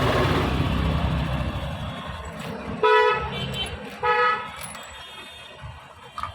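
A low rumble fades over the first two seconds, then a vehicle horn honks in short blasts about 3 and 4 seconds in, a fainter toot between them.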